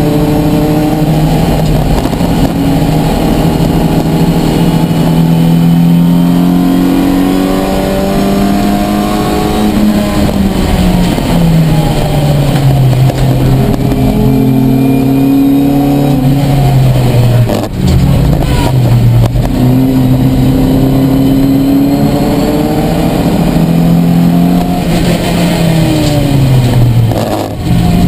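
Ford Fiesta race car's engine heard from inside the cabin, revving up and falling back again and again through gear changes and lifts for corners. Brief dips in the engine note come a little past halfway and near the end.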